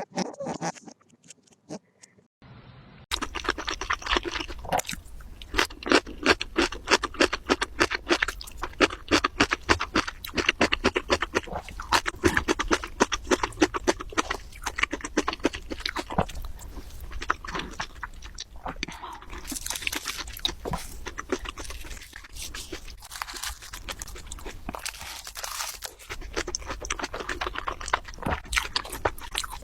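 An animal chewing and crunching food: a dense, fast run of crisp crunches that starts about three seconds in and carries on steadily.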